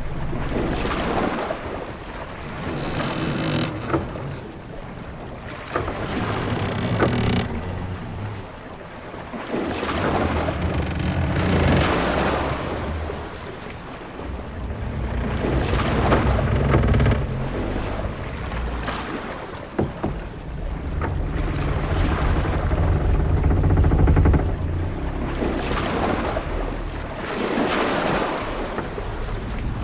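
Sea waves surging and washing against a wooden sailing ship in swells every few seconds, over a low rumble, with the ship's timbers creaking a few times and an occasional sharp knock.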